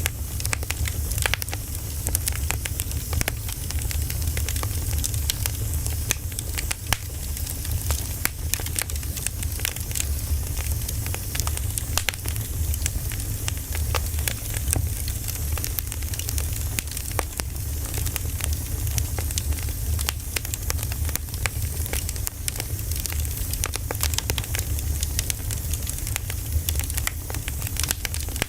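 Firewood burning: a steady crackle of many small pops and snaps over a low rumble and a soft hiss.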